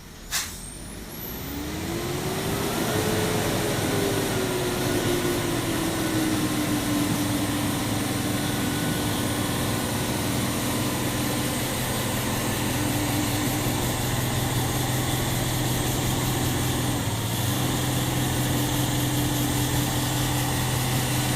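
A truck engine picks up after a sharp click near the start. It rises in pitch and loudness over a couple of seconds, eases back, then runs steadily.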